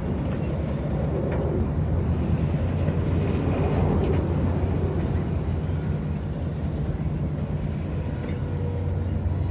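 Diesel locomotive engine running steadily, a low, even hum.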